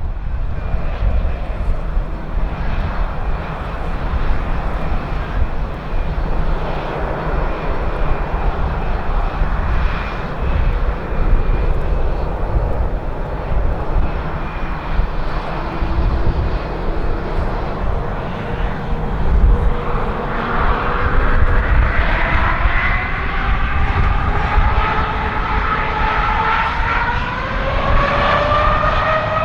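Boeing 787-8 jetliner's Rolls-Royce Trent 1000 engines running with a steady rumble. About two-thirds of the way in, a whine comes up and rises steadily in pitch as the engines spool up to takeoff thrust.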